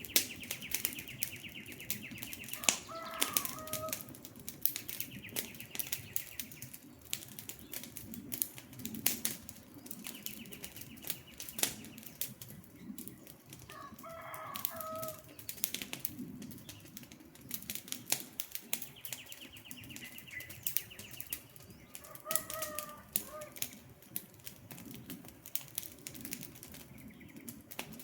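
Wood fire crackling, with frequent sharp pops over a low hiss of flames. A bird call sounds three times, several seconds apart, and a high buzzy trill comes and goes in between.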